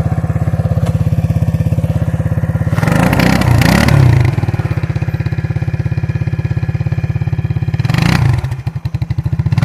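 Suzuki KingQuad ATV's single-cylinder engine running and revved hard twice, about three seconds in and again near the end, for a two-wheel-drive burnout in snow, then dropping back.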